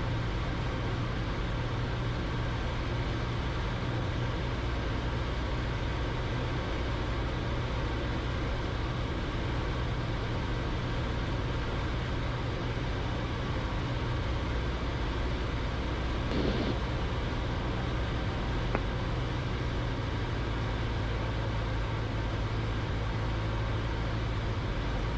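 Cessna 172's piston engine and propeller droning steadily in the cabin during a descending approach, with one short blip about two-thirds of the way through.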